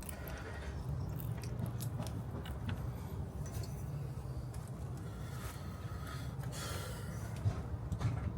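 Handling noises on an outboard motor: scattered clicks and short scraping rustles of plastic parts being fitted and snapped into place, over a steady low rumble. A sharper click comes near the end.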